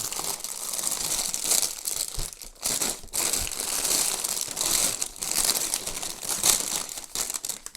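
Plastic bags of Lego pieces rustling and crinkling as they are rummaged through and handled, with brief pauses.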